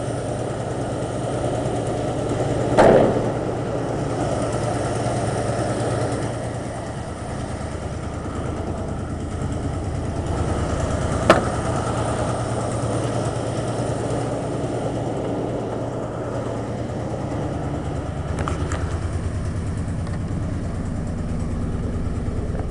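1989 Jeep Grand Wagoneer's AMC 360 V8 with two-barrel carburetor idling steadily after a cold start. It is fairly even but carries a miss, which the owner traces to a bad rear spark plug and a holed, leaking exhaust manifold. A short louder noise comes about three seconds in and a sharp click near the middle.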